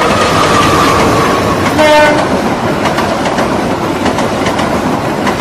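KAI CC206 diesel-electric locomotive passing close with a passenger train, its engine and wheels rumbling, with a short horn blast about two seconds in. After that the coaches' wheels go clickety-clack over the rail joints.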